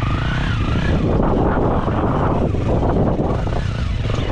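Enduro motorcycle engine running steadily at low revs.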